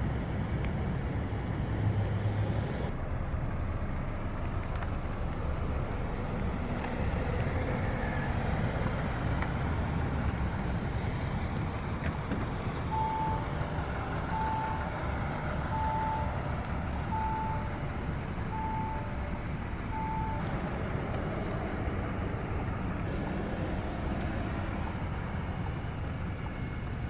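Steady low rumble of a running vehicle engine. About halfway through, six short beeps at one pitch sound evenly spaced, roughly one every second and a half.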